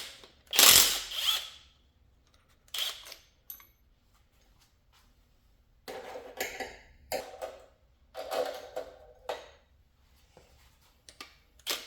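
Hand tools and metal valvetrain parts clanking in a series of short, separate bursts as the rocker arms are taken off the Ford Ranger's 3.0 L V6, the loudest burst about a second in.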